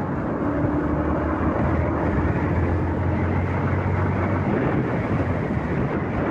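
Wind rushing over the microphone of a moving motorcycle, with a steady engine drone underneath.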